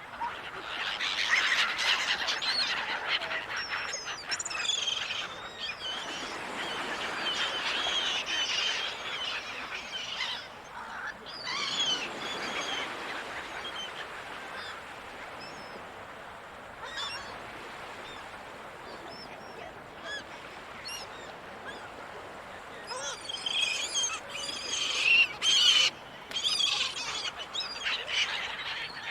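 Seagulls calling over breaking waves: bursts of many overlapping gull cries, busiest near the start and again near the end, over a wash of surf that swells and fades.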